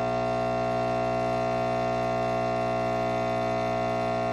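Nespresso Inissia capsule machine's pump buzzing with a steady, even hum while it brews the bigger (lungo) pour; a little loud.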